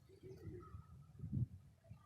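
Domestic pigeons cooing faintly, with a louder low coo a little past the middle.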